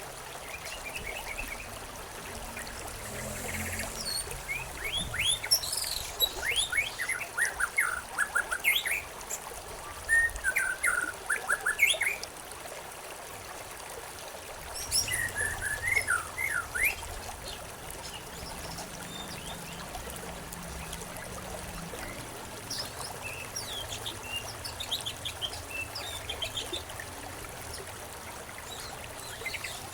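Songbirds chirping and singing over a steady trickle of running water, in bursts of quick, sweeping chirps with quieter spells between.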